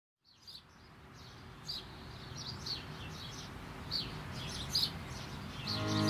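Birds chirping, short repeated chirps over a faint hiss, fading in from silence; music begins just before the end.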